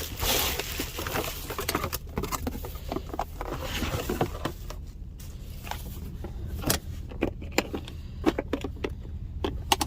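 Scattered clicks, knocks and rustling as food packages and a small cooker are handled, over the steady low hum of an idling truck.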